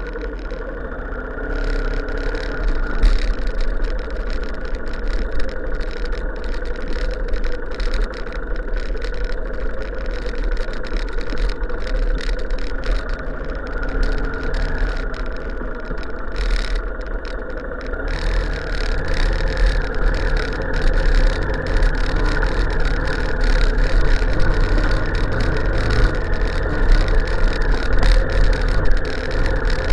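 Motor vehicle engine running steadily, growing deeper and a little louder from about 18 seconds in.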